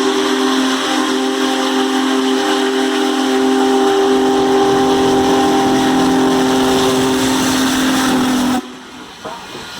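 Diesel locomotive air horn sounding one long blast, a chord of several steady notes, which cuts off abruptly near the end. The horn gives way to quieter train rumble with the click and clatter of wheels over rail joints.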